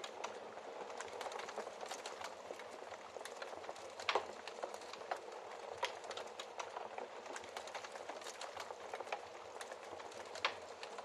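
Wood fire in a fireplace crackling steadily, with a constant hiss and many small scattered pops. Two louder pops stand out, one about four seconds in and one near the end.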